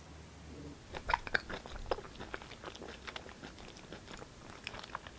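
A person eating: a run of short, crisp bites and chewing clicks, irregularly spaced, starting about a second in.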